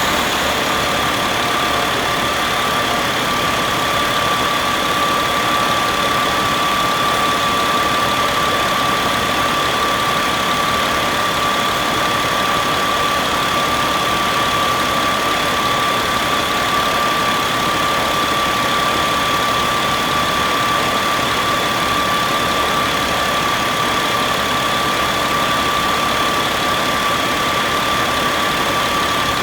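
Caterpillar 3126 inline-six diesel engine idling steadily, with a constant high-pitched whine over the running.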